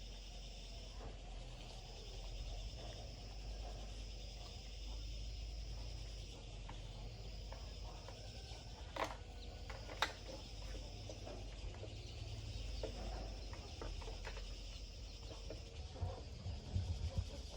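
Steady high-pitched insect chirring in the background, with two sharp clicks about nine and ten seconds in and a few small knocks near the end.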